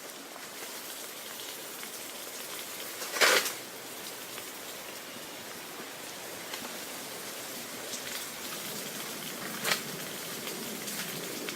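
Steady splashing of falling water, with two short, louder splashes: one about three seconds in and one near the end.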